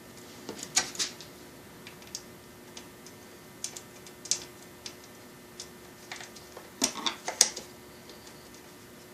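Scattered clicks and knocks of a belt sander being handled during a belt change: parts snapped and tightened by hand, with a louder cluster of knocks about seven seconds in. The sander is not running.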